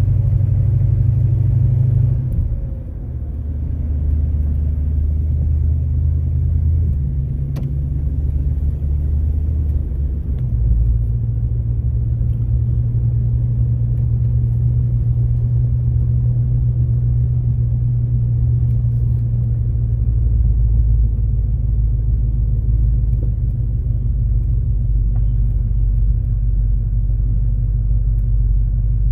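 A car's engine and road noise heard from inside the cab while driving slowly, a steady low rumble whose pitch steps up and down a few times as the speed changes. It slows toward a stop near the end.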